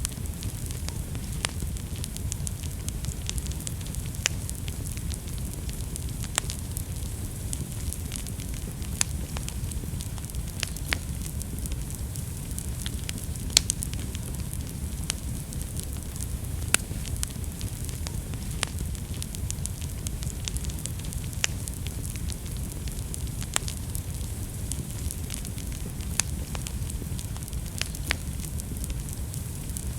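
Fireplace fire burning with a steady low rumble and hiss, and sharp crackles and pops every second or two, the loudest about halfway through.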